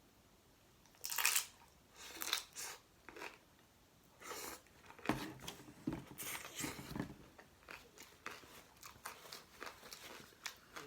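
A person biting into a chickpea curry and mashed potato taco about a second in, then chewing it in many short, uneven bursts.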